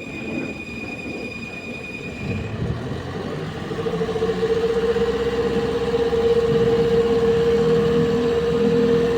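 Mitsubishi Canter dump truck running, a low rumble with a steady whine that comes in about three and a half seconds in and grows louder and holds.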